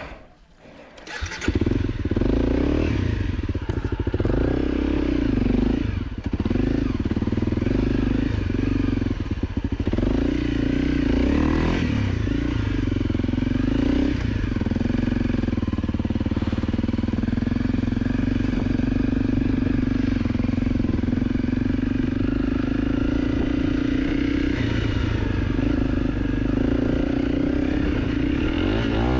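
Dirt bike engine cutting in sharply about a second and a half in, then running steadily with the revs rising and falling.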